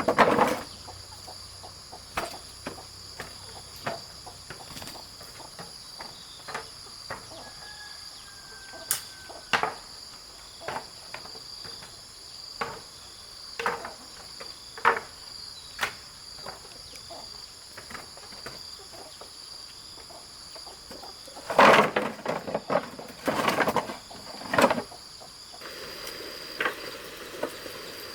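Insects shrilling steadily at several high pitches, with scattered sharp knocks and taps throughout and a louder run of knocks about three-quarters of the way through.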